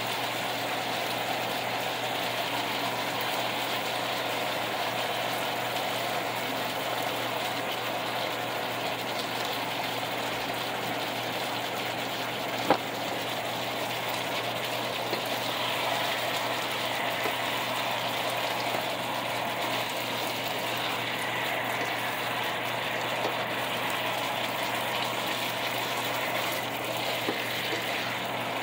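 Chicken pieces sizzling steadily in sauce in a frying pan, with one sharp tap about halfway through.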